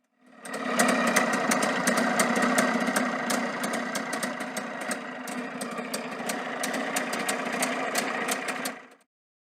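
Motorcycle engine running steadily at idle, with many sharp irregular ticks over it; it starts just after the beginning and cuts off about nine seconds in.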